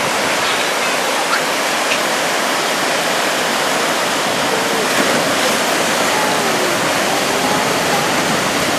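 Rio Pita Waterfall's rushing water: a steady, loud, even noise of falling water.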